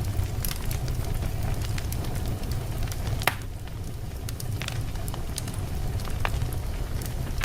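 Wood logs burning in a fireplace: a steady low rumble of flames with scattered crackles, and one louder pop a little over three seconds in.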